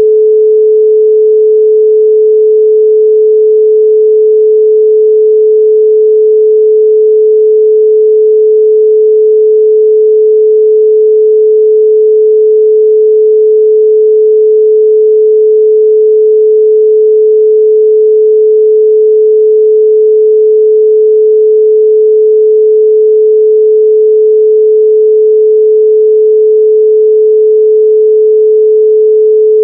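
A steady 432 Hz pure sine tone, held at one pitch and loudness without a break.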